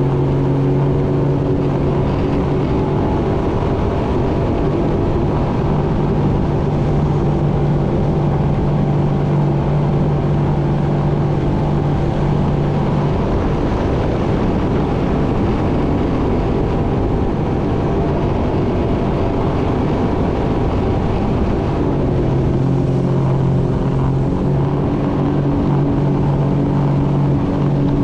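Jet ski running under way: a steady engine hum over the rush of water and wind. The engine note fades under the rushing noise for several seconds in the middle, then comes back.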